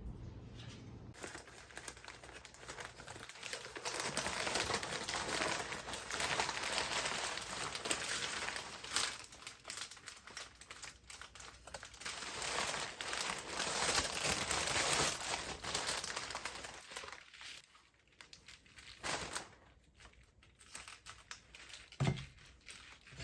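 Crinkling and rustling as something is handled for most of the stretch, then quieter, with a couple of short knocks near the end.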